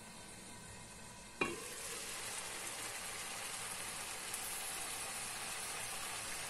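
A glass wok lid lifted off with a single clack about a second and a half in, then pork liver frying in its sauce, sizzling steadily and louder in the open wok.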